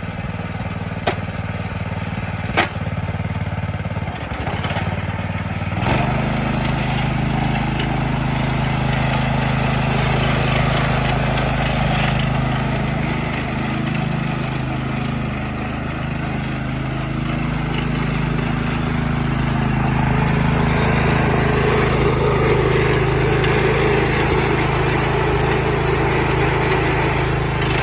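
1970 Sears 10XL garden tractor's engine running steadily, picking up speed about six seconds in and holding at the higher speed.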